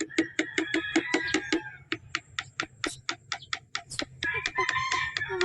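Rapid, even clattering at feeding time in a pigeon loft, about seven metallic-sounding strikes a second, typical of a feed tin being rattled or tapped to call the pigeons. It is louder at the start and again near the end.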